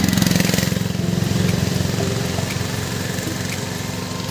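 Motorcycle engine idling steadily, a low, even pulsing run.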